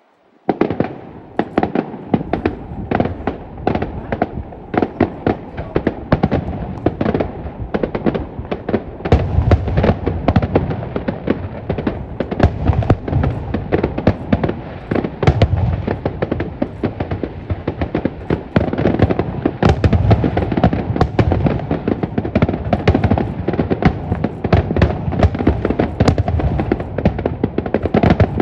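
Fireworks finale: a rapid, unbroken barrage of bangs and crackling bursts over a continuous rumble. It starts suddenly and grows heavier and deeper about a third of the way in.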